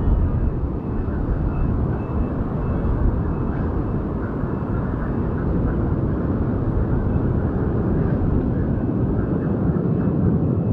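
Boeing 787 jet engines running with a steady, loud rumble and a faint high whine.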